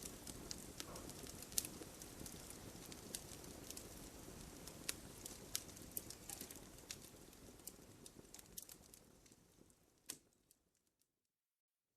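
Campfire crackling: irregular sharp pops and snaps over a low steady hiss of burning. The sound gradually fades away, with a last pop about ten seconds in, and falls to silence near the end.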